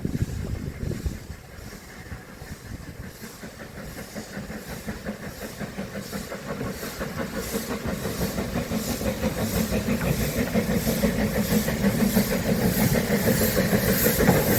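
Beyer Peacock 2-4-0 tank steam locomotive No. 4 "Loch" pulling away with a train: a regular exhaust chuff at about three beats a second with hissing steam, growing steadily louder.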